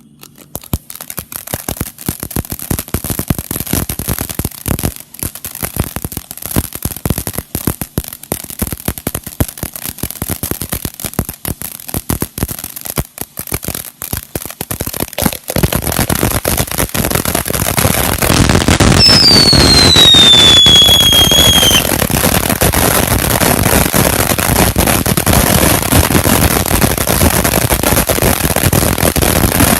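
Ground fountain firework spraying with dense crackling throughout, growing much louder about halfway through. A whistle sounds for a few seconds in the middle, falling in pitch.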